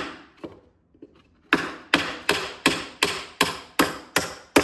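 Hammer blows striking at a steady rhythm of about three a second, pausing for about a second early on and then resuming. The hammering is knocking loose a wooden form board that is stuck to the cured concrete.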